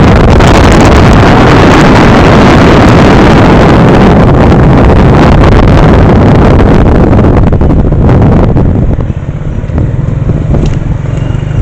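Loud wind buffeting the microphone over a low rumble, as when moving in an open vehicle; it eases somewhat about nine seconds in.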